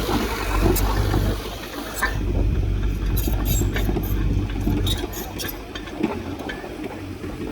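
Diesel engine of heavy earthmoving machinery running steadily with a low rumble, with scattered short clanks and knocks from about two seconds in.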